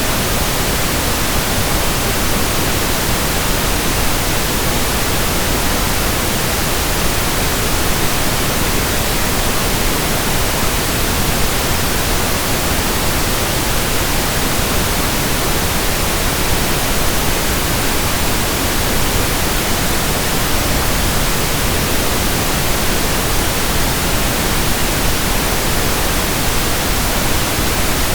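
Steady pink noise: an even, unchanging hiss spread across all pitches, with no rhythm or breaks.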